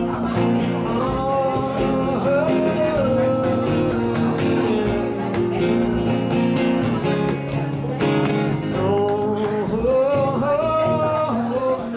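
Live song with guitar accompaniment and a wordless sung melody gliding over it.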